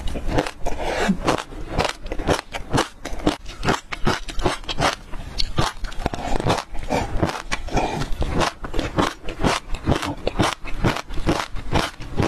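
Close-up chewing of passion fruit seeds: a dense, continuous run of sharp crunches and crackles, several a second.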